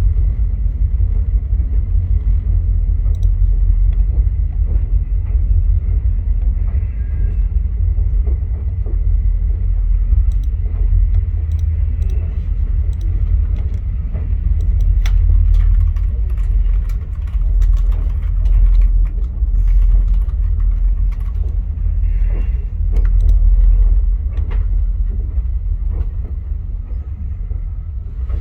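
Via Rail passenger train rolling along the track: a steady low rumble with scattered sharp clicks and knocks from the wheels and running gear, thickest in the second half. A faint high steady whine sits over it for the first several seconds.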